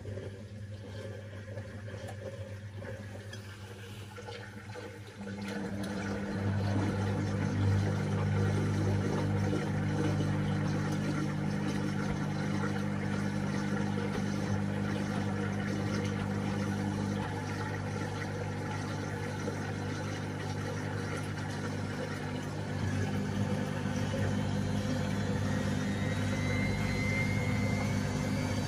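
Washing machine running with a steady motor and pump hum and water flowing, getting louder about five seconds in; near the end a faint rising whine as the drum picks up speed.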